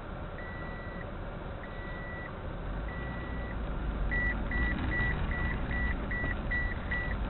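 A car's electronic warning beeper: a single high tone beeping slowly at first, then from about four seconds in faster and louder, about two and a half beeps a second, over the low rumble of the car inside the cabin.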